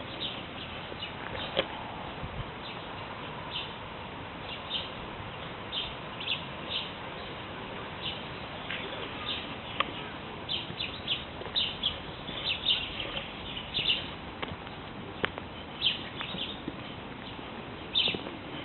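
Woodland birds chirping and calling in short, scattered notes over a steady background hiss, with the calls coming more thickly in the second half.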